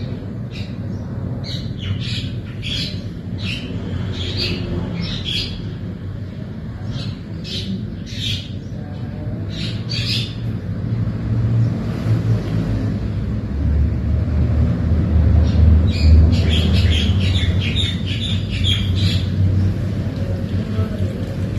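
Small birds chirping in short, quick calls, in two spells with a gap in the middle. Underneath is a steady low rumble that grows louder about two-thirds of the way in.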